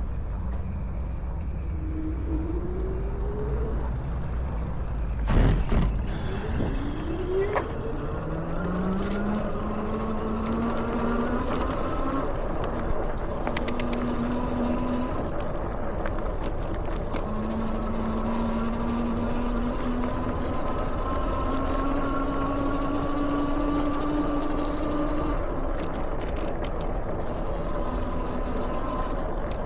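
Electric bike motor whining as it pulls, the pitch rising in several stretches as it gains speed, then dropping and climbing again, over a rumble of tyres and wind. There is a single sharp knock about five seconds in.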